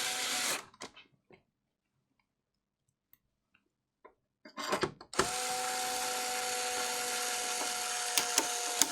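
Small electric screwdriver motor running with a steady whine: it spins briefly at the start, stops, then runs again steadily from about five seconds in, with a few small clicks near the end.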